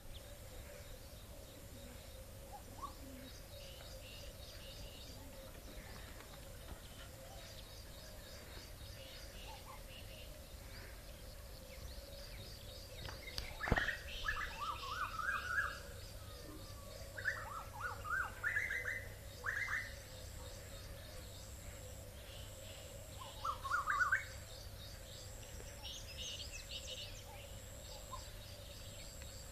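Several birds chirping and calling, with quick high chirps throughout and louder, rising calls in the middle stretch. A single sharp click about halfway through, over a steady faint hum.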